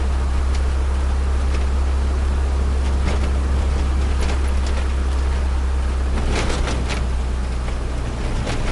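Steady in-cabin drone of a turbocharged Nissan Micra's engine at about 2000 rpm with the throttle closed, engine warm, mixed with road and tyre noise. A few short clicks and taps come through, with a cluster of them about six and a half seconds in.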